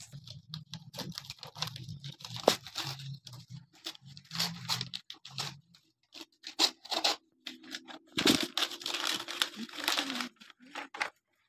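Wrapping paper being torn and crinkled by hand as a gift is unwrapped, in many short, irregular rips and rustles.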